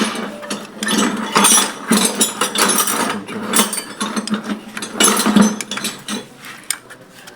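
Ratchet wrench clicking in several runs of quick strokes, loosening a tractor's valve adjuster so the push rod can be seated back in it.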